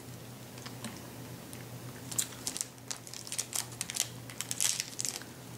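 Scattered small crackling clicks and crunches from eating a hard candy, busiest from about two seconds in.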